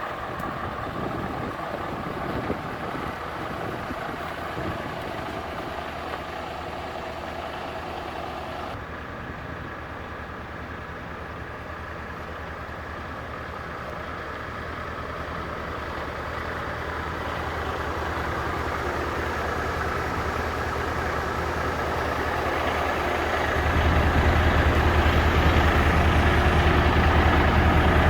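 Scania S 580's V8 diesel engine running at a steady note, growing gradually louder, then stepping up to a stronger, deeper sound about three-quarters of the way through.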